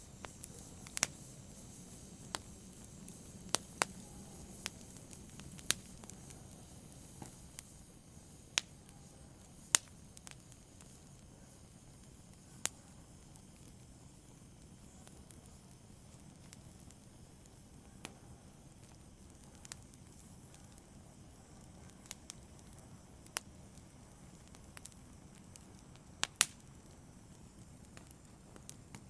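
Wood fire burning in a fireplace, crackling: sharp irregular pops every second or few over a low steady hiss, with a close double pop near the end.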